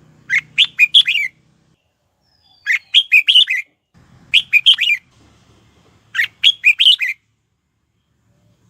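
Red-whiskered bulbul singing: four short, loud phrases of quick warbled notes, about one every two seconds.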